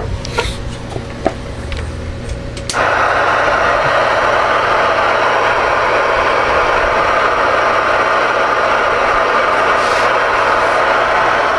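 A few sharp clicks over a low hum, then about three seconds in a loud, steady hiss of radio static comes on suddenly and holds: the Connex CX-3300HP ten-meter radio's receiver playing band noise through its speaker.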